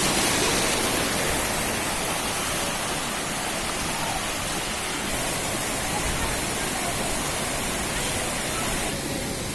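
Steady rush of water falling at Gandov waterfall.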